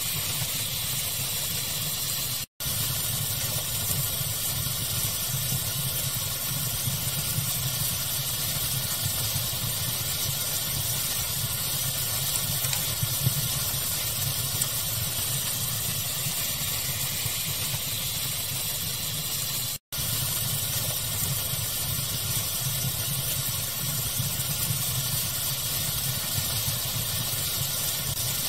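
Crackling fire blended with steady pink noise: a constant hiss with a low rumble beneath and small pops here and there. The sound cuts out for an instant twice, about two and a half seconds in and again about twenty seconds in.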